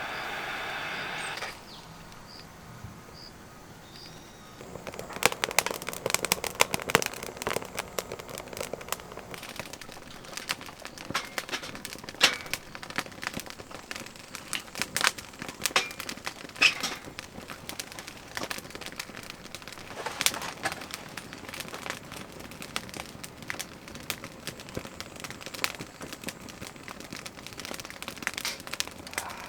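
Firewood crackling and snapping as a newly lit fire catches, the crackles thickening about five seconds in and carrying on in irregular pops. A brief steady hiss comes right at the start.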